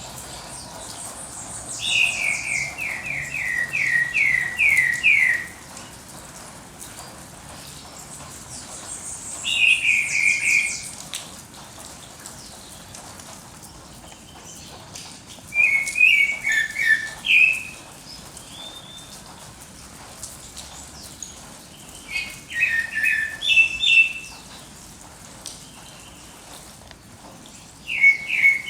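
Songbird singing at dawn in short phrases about every six seconds, the first a quick run of falling notes, over a faint steady background hiss.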